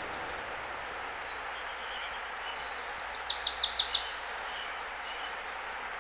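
A songbird sings a short, quick phrase of about six falling whistled notes about three seconds in, over a steady outdoor background hiss with faint bird calls.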